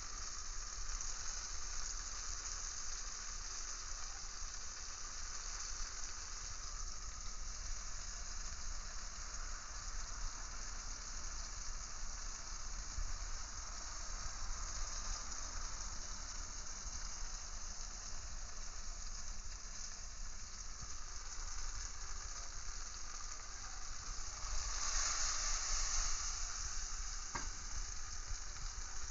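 Oil sizzling steadily in a frying pan as nectarine slices, oyster mushrooms and breaded ocean perch fry. Near the end the sizzle swells louder for about two seconds, and a single click follows.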